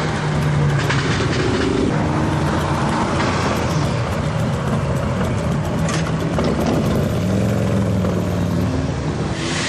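Several car engines running at once, their pitches shifting up and down as the cars move. A short burst of hiss comes near the end.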